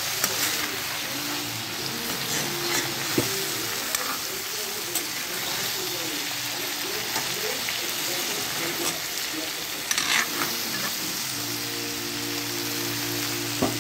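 Pumpkin cubes sizzling in hot oil in a cast-iron wok, with now and then the click and scrape of a metal spatula stirring them.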